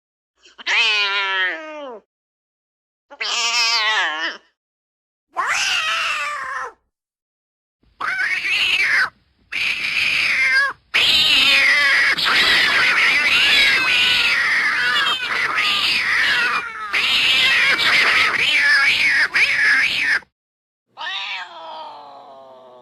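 Angry domestic cat screeching: a series of short wavering yowls, then a long unbroken stretch of harsh screeching about eleven seconds in, ending with one falling yowl that fades out.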